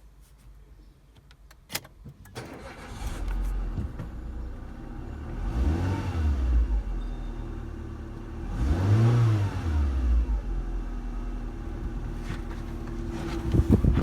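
Renault Scenic II's 1.6-litre K4M four-cylinder petrol engine starting about two seconds in after a click, then idling and revved twice, each rev rising and falling back to idle. It grows louder near the end.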